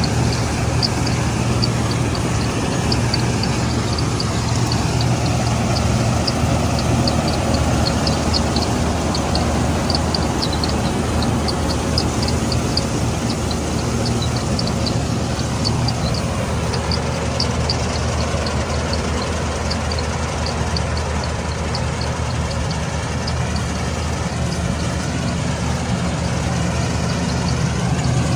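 Combine harvester running steadily in the field, its engine and machinery making a constant low hum, with short high ticks repeating a few times a second over it.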